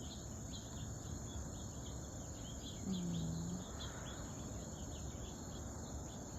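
Outdoor insect chorus: crickets chirping steadily, with a continuous high trill and repeated short chirps.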